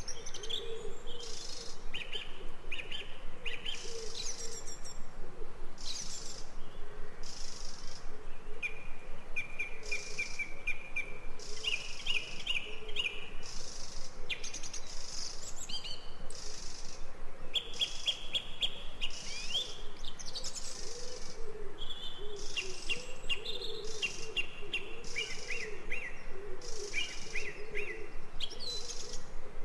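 Forest birdsong: several birds chirping and calling throughout, with rapid trills and repeated high calls, over a low wavering call.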